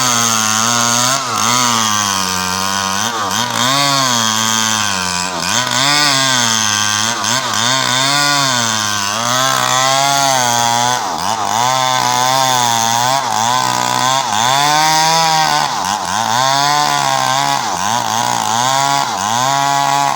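Small Stihl chainsaw running at high speed and cutting a coconut trunk, its engine note sagging and recovering again and again, about once a second, as the chain bites into the wood. Near the end the engine note drops away.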